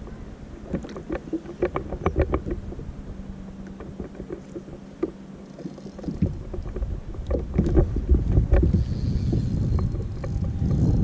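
Sounds aboard a small fishing boat on the water: scattered knocks and clicks over a faint steady hum that stops about six seconds in. After that a low rumbling noise grows louder, like wind buffeting the microphone.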